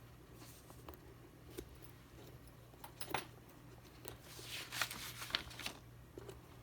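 Small parts of a shoe's dial lacing system being handled: a few light clicks, then a run of scratchy rustles and clicks about four to five and a half seconds in, over a faint steady hum.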